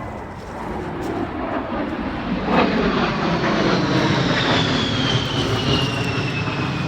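Airplane passing overhead: a broad engine noise builds to a steady loud level, with a high whine that slowly falls in pitch as it goes by.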